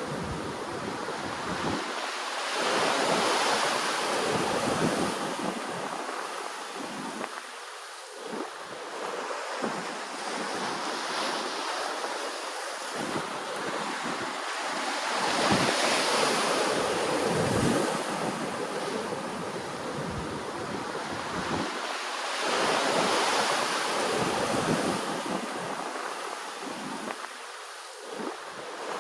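Ocean waves washing in, a steady rush that swells louder three times as sets of waves come ashore.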